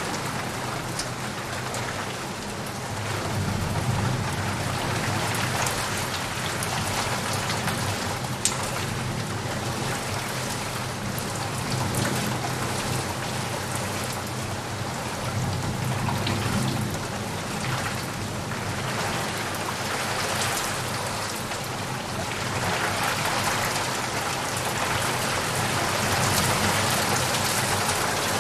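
Heavy rain falling steadily on leaves and puddles, with sharp drop impacts through it. Low rumbles of thunder swell up a couple of times.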